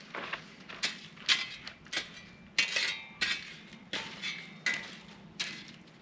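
A run of sharp metallic clinks and knocks, about nine of them at an uneven pace of roughly one and a half a second, several ringing briefly.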